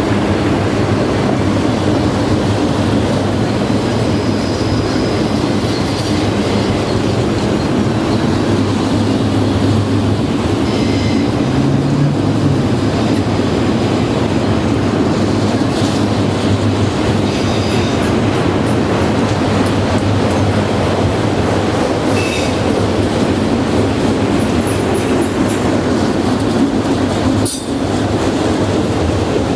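Train cars rolling past close by: a steady, loud rush of wheels on rail, with a few short, high wheel squeals.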